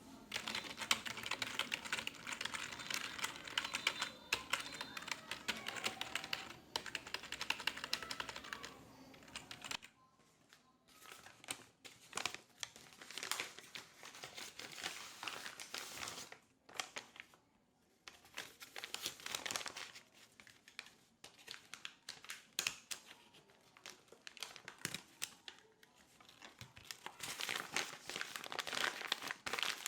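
Office ambience of keyboard typing mixed with rustling, dense rapid clicking for the first ten seconds or so, then coming in scattered bursts.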